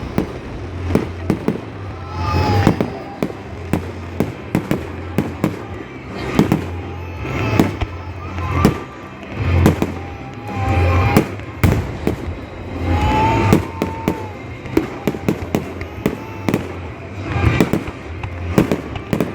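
Fireworks going off, one bang after another at irregular intervals, some bangs close together.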